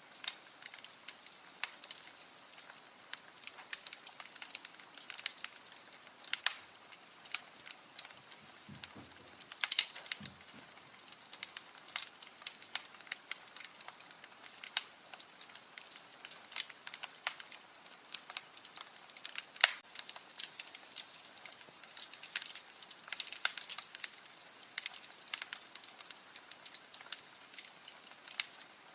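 Wood fire crackling in a fireplace: irregular sharp pops and snaps over a soft steady hiss, the loudest snap about ten seconds in.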